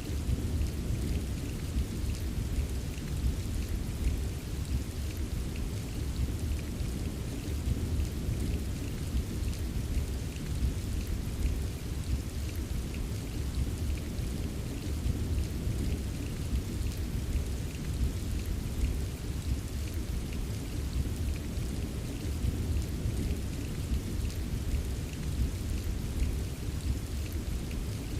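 Steady rain ambience: a constant deep rumble of heavy rain with a light patter of drops over it.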